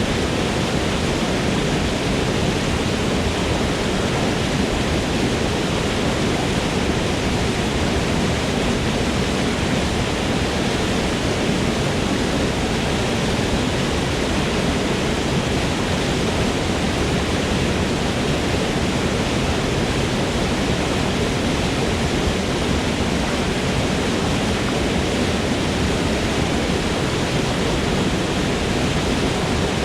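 Waterfall in a forest: a steady rush of falling water, even and unbroken.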